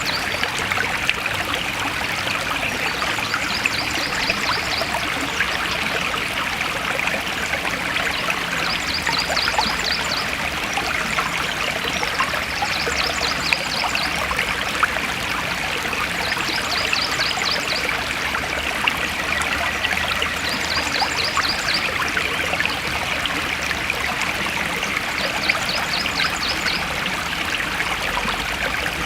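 A forest stream flowing steadily. A short, high, rapid trill repeats about every four seconds over the water.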